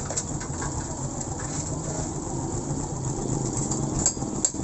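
Suzuki Smash 115's single-cylinder four-stroke engine idling steadily after its carburettor's idle air adjustment was set, with a few light clicks near the end.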